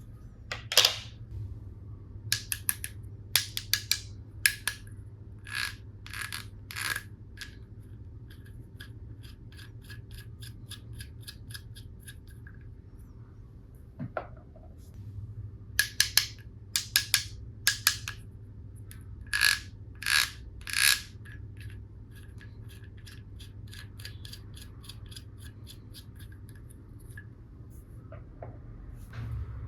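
Plastic toy tool pieces being handled, with sharp clicks and taps in scattered clusters and light scraping between them.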